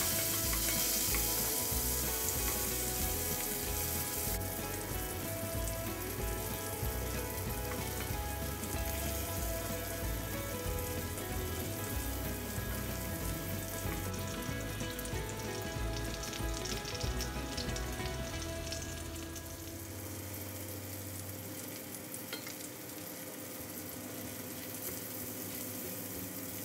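Sliced smoked sausage and bacon sizzling in hot bacon fat in a cast iron skillet as the sausage browns, stirred and turned now and then with a wooden spoon. The frying eases off slightly about twenty seconds in.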